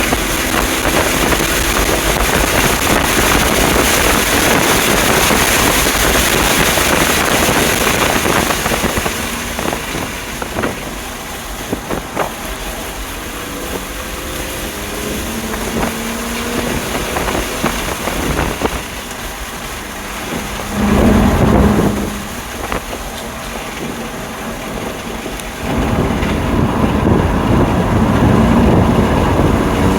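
A BMW M2 Competition's twin-turbo inline-six heard from inside the car while lapping a race track, its pitch rising and falling through acceleration, lifts and gear changes, mixed with wind and tyre noise. The engine is loudest for the first several seconds, then quieter, with brief loud swells about two-thirds of the way in and again near the end.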